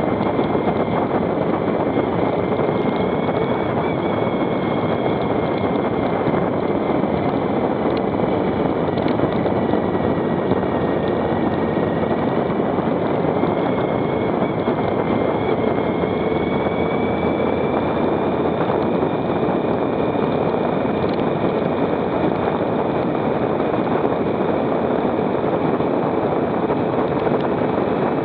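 Motorcycle running at a steady cruising speed, its engine note drifting only slightly, with wind rushing over the microphone.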